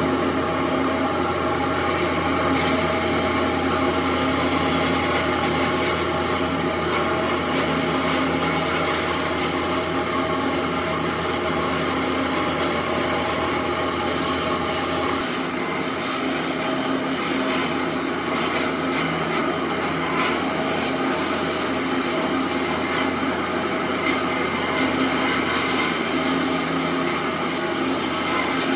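Power tool running steadily on wood, cutting in suddenly and staying loud, with a steady motor hum under it that shifts about halfway through.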